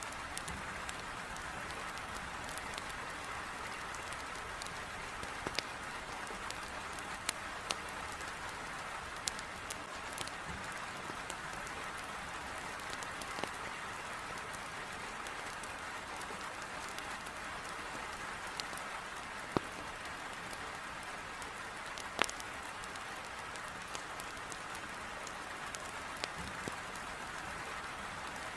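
Heavy rain falling steadily against a window, with scattered sharp pops of a wood fire crackling in a fireplace at irregular moments.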